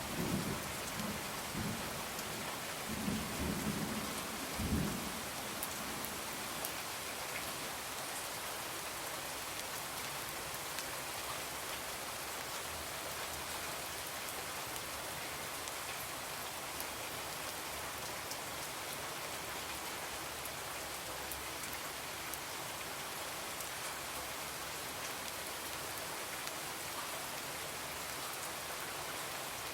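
Steady rain falling on a window, with a low rumble of thunder swelling a few times in the first five seconds.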